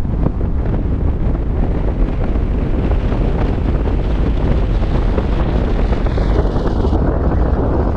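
Strong wind buffeting the microphone: a loud, steady rush that starts abruptly and whose hiss thins out toward the end.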